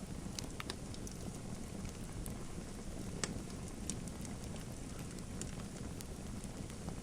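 Wood fire crackling: a steady low rumble with irregular sharp pops and snaps, one louder pop about three seconds in.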